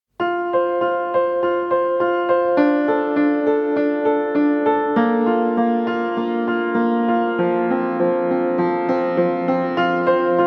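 Background music: a gentle piano-like keyboard melody of evenly paced notes over sustained chords.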